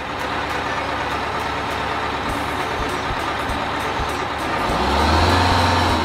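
A large motor vehicle's engine running, with a low hum that grows louder about five seconds in.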